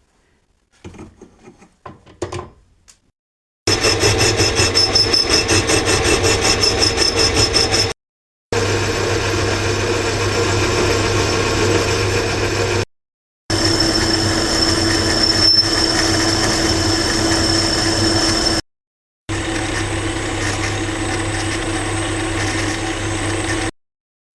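A few faint clicks and knocks, then a machine running steadily with a high whine, heard in four short stretches that each cut off abruptly. In the first stretch the sound pulses quickly.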